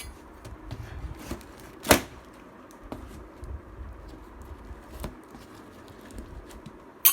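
Sewing machine's cardboard box being opened and its packing handled by hand: tearing and rustling with scattered clicks, and a loud sharp snap about two seconds in and another near the end.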